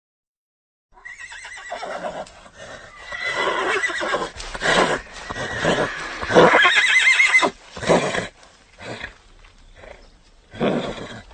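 A horse neighing: a long whinny starting about a second in, its high pitch quavering and loudest just before the middle, followed by a few shorter, quieter sounds near the end.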